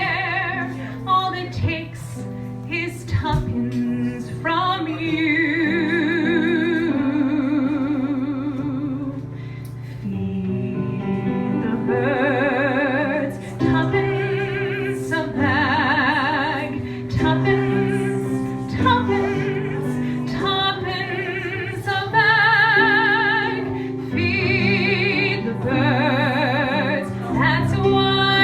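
A woman singing a slow ballad over instrumental accompaniment, holding long notes with a wide vibrato.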